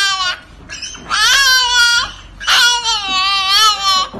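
Husky puppy howling in high, wavering cries: one cry ends just after the start, then two long cries follow with short pauses between them. The puppy is shut in a crate and crying to be let out.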